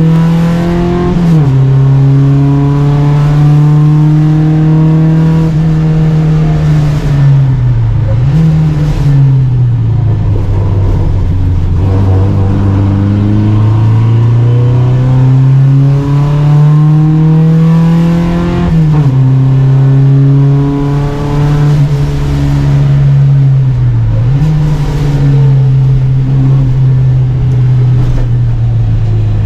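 Volvo Amazon 121 race car's four-cylinder engine pulling hard, its pitch climbing slowly through the gears. The revs drop sharply at gear changes about a second in and again around two-thirds of the way through, and twice they dip briefly and pick up again.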